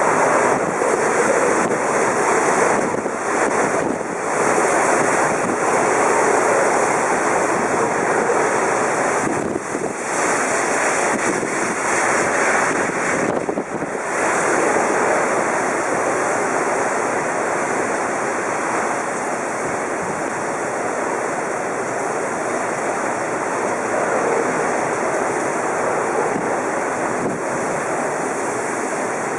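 Typhoon-force wind with heavy rain: a loud, dense rushing noise that surges and dips in gusts through the first half, then holds steadier.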